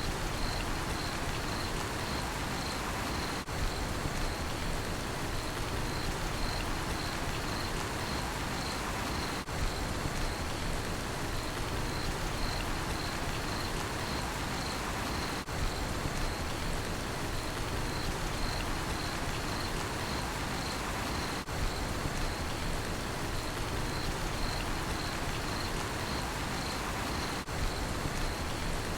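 Steady rain falling, heard as an even hiss, with a cricket chirping over it in a high, regular pulse about twice a second. A brief dip in level comes about every six seconds.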